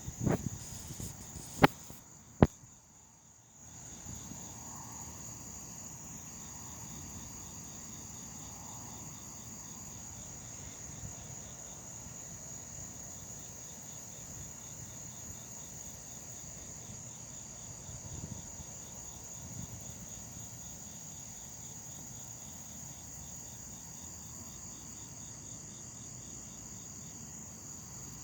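Crickets and other night insects chirping in a steady chorus: a continuous high trill with an evenly pulsing chirp beneath it. Two sharp clicks sound about two seconds in.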